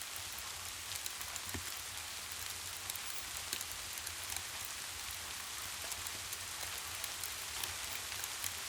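Steady rain, a continuous hiss with many separate drops ticking on a surface, over a constant low rumble.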